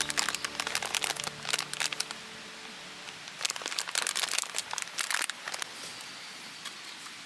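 Crinkling, crackling rustles in two bouts of rapid ticks, each about two seconds long with a short pause between, then only a few scattered ticks.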